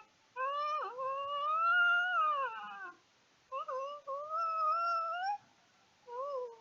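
Howling: a series of long, wavering calls that rise and fall in pitch, with short breaks between them.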